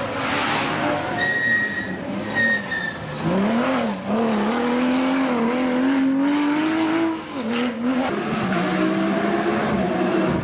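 Porsche competition car engine under hard acceleration on a rally or hill-climb stage. Its note climbs steadily for several seconds, then drops in steps about seven and eight seconds in.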